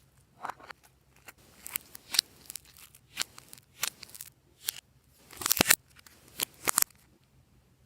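Glossy slime being worked by hand, giving irregular sticky clicks and pops, with the loudest run of them about five and a half seconds in.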